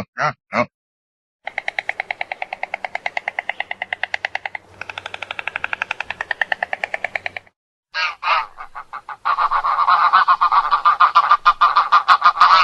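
Waterfowl calling in long runs of rapid, evenly spaced calls, about ten a second, with a short break and a few separate calls in the middle. Two short pig grunts come right at the start.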